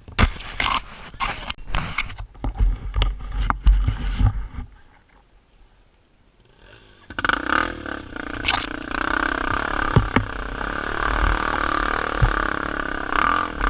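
A run of knocks and scrapes for about four seconds, then a short lull. After that, a dirt bike engine runs steadily to the end.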